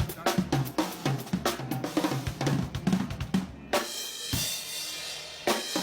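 A drum kit played fast, with quick strokes on snare, bass drum and hi-hat; just past halfway a cymbal rings out for about two seconds before the beat resumes.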